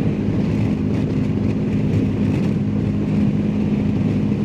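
BMW R1250GS Adventure's boxer-twin engine running at a steady cruise, with wind and road noise.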